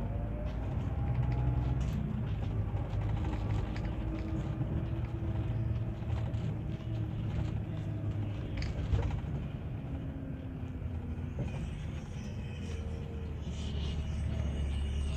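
Scania Touring HD coach running on the move: a steady heavy diesel rumble, its engine note slowly rising and falling with speed and gear, with faint high tones near the end.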